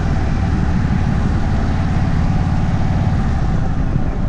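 Indian motorcycle running steadily while riding along, a dense low engine and road rumble with no break.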